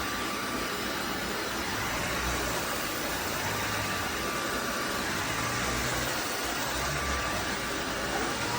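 Cordless wet-dry vacuum mop running steadily: an even rush of motor and suction noise with a faint steady whine.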